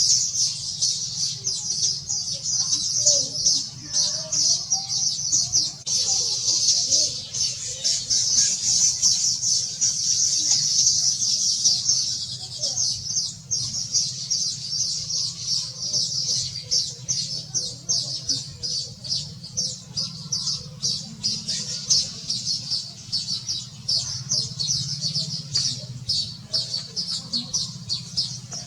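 A flock of small birds chirping rapidly and continuously in a dense, high-pitched chatter, over a faint low steady hum.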